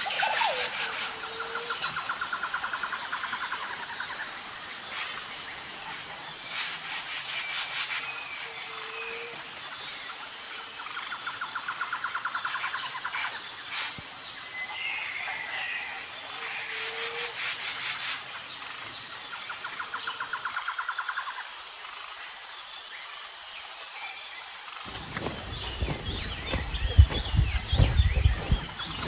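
Outdoor wildlife ambience: insects buzzing steadily in a fast pulsing high tone, with a trilled call repeating every five or six seconds and a few short bird calls. About three seconds before the end a loud, low, rough sound comes in with several sharp peaks.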